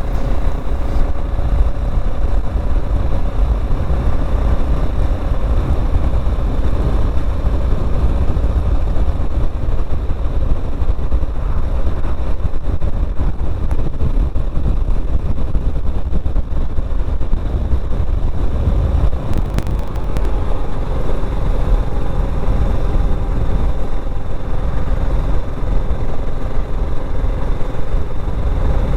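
BSA Gold Star 650's single-cylinder engine running at a steady road speed while riding, with a constant low rumble of engine and wind noise.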